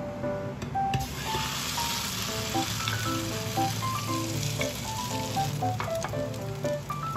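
Vegetable pancake sizzling as it fries in hot oil in a nonstick pan. The sizzle starts suddenly about a second in and eases off near the end.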